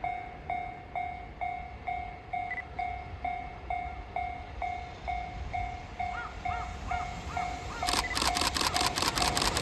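Japanese level crossing warning bell ringing in a steady ding-ding, about two strikes a second. About eight seconds in, the rapid clicking of train wheels over rail joints starts as a train arrives at the crossing.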